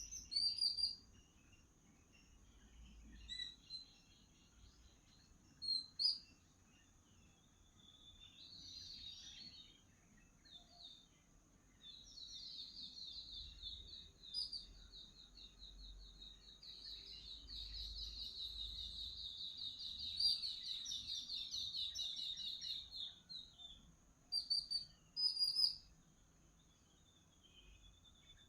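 Birds calling in short high chirps, with a long, fast chattering trill of repeated notes through the middle that lasts about ten seconds. A thin steady high tone runs underneath.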